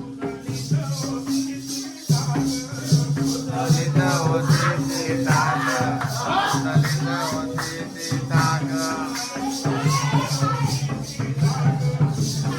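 Jakhadi folk music: an even, fast jingling beat of about four strokes a second over a held low drone and a wavering melody line.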